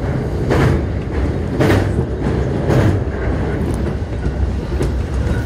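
Train running over a steel truss railway bridge, heard from inside the carriage: a steady low rumble with a wheel clack about once a second.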